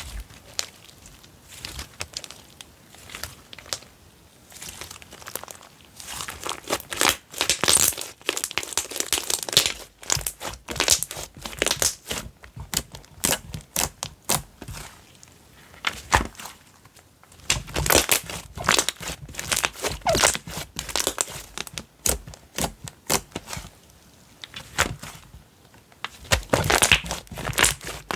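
Slime squished, stretched and poked by hand: rapid sticky pops and crackling clicks, coming in bursts with quieter stretches between them.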